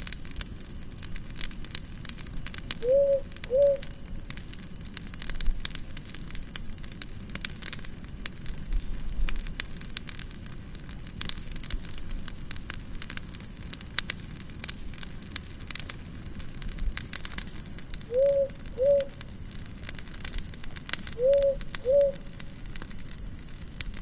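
Wood campfire crackling and popping steadily. A low two-note call sounds three times, and a short run of high pips comes about halfway through.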